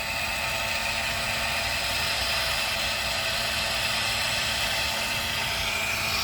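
Small electric motors of an RC toy excavator whirring steadily as it works.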